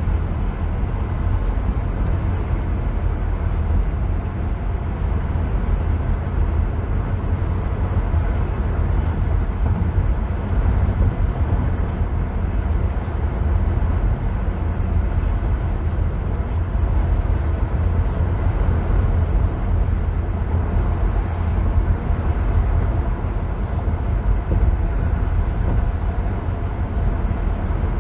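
Car driving at freeway speed: steady tyre and road noise with a deep, even rumble and no changes in speed.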